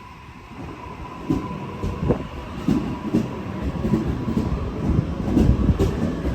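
Sydney Trains suburban electric train moving along the platform, its wheels clicking over the rail joints again and again and growing louder, with a faint steady whine.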